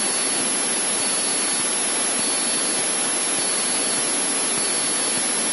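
Steady rushing hiss of a Cessna 152's cockpit noise, engine and airflow, in a reduced-power cruise descent, heard through the aircraft's intercom and radio audio, with a faint thin high whine that comes and goes.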